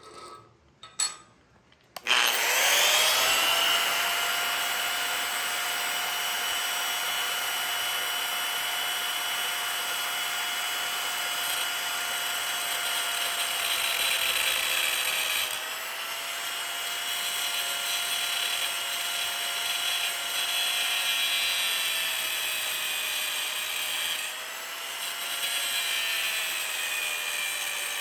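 After a couple of clicks, an electric grinder spins up about two seconds in and runs with a steady whine while grinding the angled end of a steel piece. Its pitch sags briefly twice as the tool is pressed into the metal.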